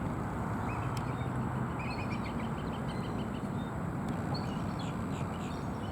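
Bald eagle giving a faint series of short, high chittering calls about two seconds in, with a few more later, over a steady low rumble of distant traffic.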